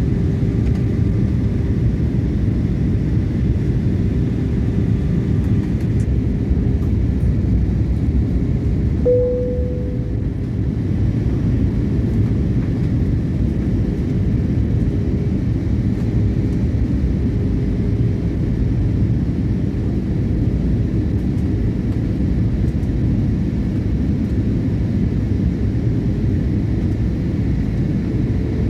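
Steady low rumble of an airliner cabin in flight: jet engines and rushing air, with a faint steady hum and a short tone about nine seconds in.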